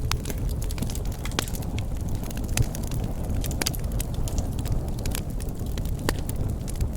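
Campfire burning, a steady low rumble with irregular sharp pops and crackles of burning wood.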